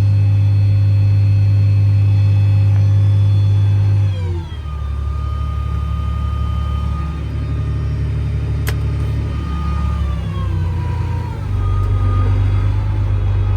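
Diesel engine of heavy harvest machinery running loud and steady, then its pitch falls about four seconds in as it slows, with a whine that also drops. Near the end the engine note comes back up and gets louder.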